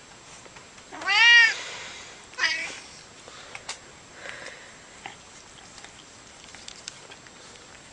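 Domestic cat meowing twice: a loud meow about a second in that rises and falls in pitch, then a shorter one, followed by a few faint clicks.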